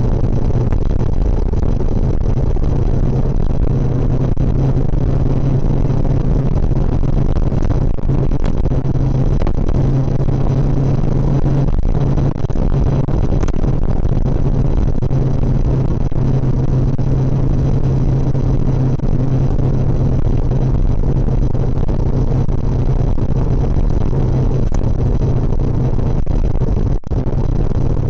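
Suzuki GSX650F's inline-four engine running at a steady pace while the motorcycle is ridden, under a constant rushing noise, with a brief dip in level near the end.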